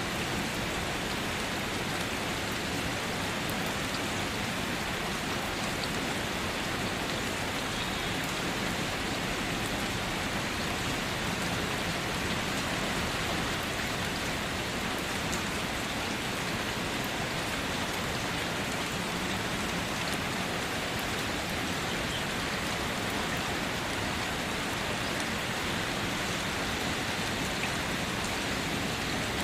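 Steady rainfall pattering on surfaces, an even continuous hiss with no thunder.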